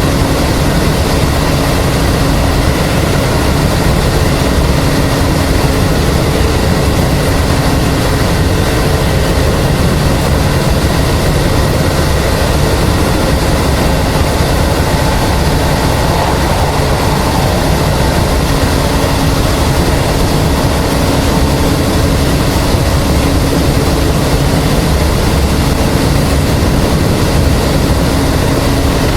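Running noise of a Hokuso 7260 series resistance-control electric train heard from inside the car at steady speed: wheels rolling on the rails with a steady hum from the traction motors and gearing, with no change in speed.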